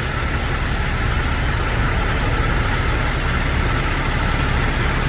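Large truck engine idling, a steady low rumble.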